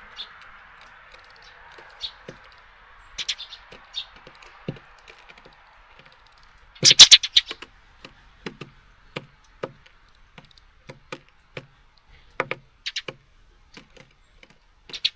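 Small birds pecking and hopping on a bird feeder: irregular sharp taps and clicks, with a quick loud flurry of taps about halfway through.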